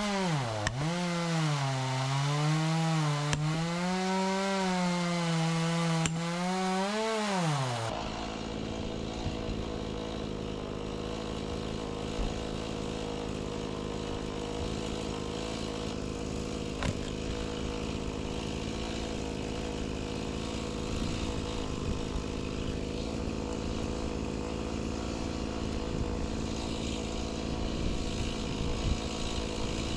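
Gas chainsaw cutting through an oak round at high revs, its pitch dipping and wavering under load. About eight seconds in it changes abruptly to a quieter, steadier engine drone that holds an even pitch.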